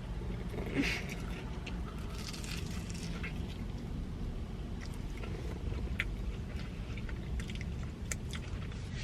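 Close-miked chewing and biting of a fried Korean corn dog, with scattered small crunches and wet mouth clicks over a low steady hum.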